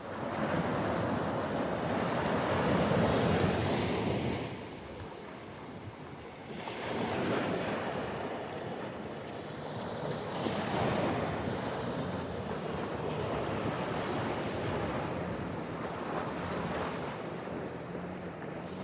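Pacific Ocean surf breaking on the shore, a steady wash that swells and ebbs as waves roll in, with a lull about five seconds in before the next wave builds. Wind buffets the microphone throughout.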